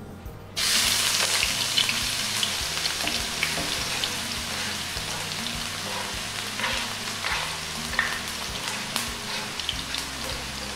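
Chopped onion and grated carrot sizzling in hot oil in a frying pan. The sizzle starts suddenly about half a second in as the onion hits the hot oil, then keeps up steadily with scattered crackling pops.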